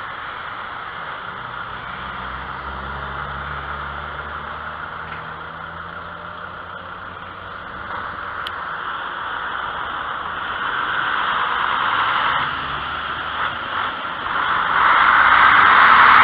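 Road traffic on a busy street: car engines and tyres running by, with a low engine hum early on. A vehicle passes close and grows loudest near the end.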